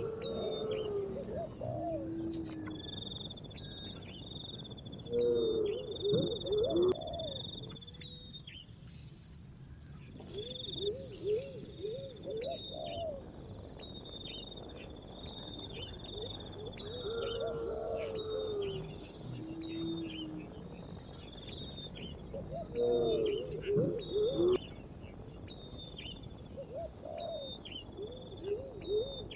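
Birds calling outdoors. A low cooing phrase of several rising and falling notes repeats about every six seconds, over frequent short high chirps and a steady insect-like hiss.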